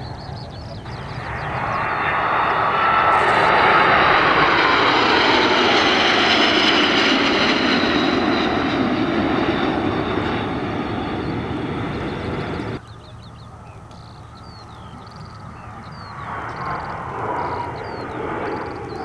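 An aircraft flying past, its engine noise swelling to a loud peak, then the pitch sliding down as it goes by. The sound cuts off abruptly about two-thirds of the way through, and another aircraft pass starts building near the end.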